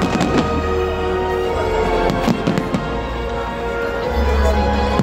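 Aerial fireworks bursting and crackling over loud music with a deep, steady bass. Clusters of bangs come in the first half second and again a little after two seconds.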